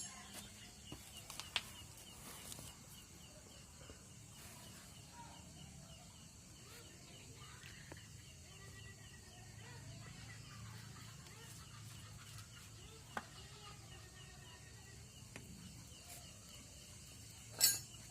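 Faint outdoor background of chickens clucking and a steady insect trill, with a few sharp knocks. There is a brief loud burst near the end.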